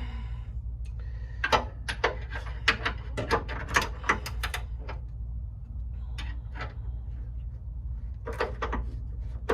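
Irregular clicks and knocks of hand tools and bolt hardware being handled during car suspension work: a dense run of sharp knocks in the first half, a sparse pause, then another short cluster near the end. A steady low hum runs underneath.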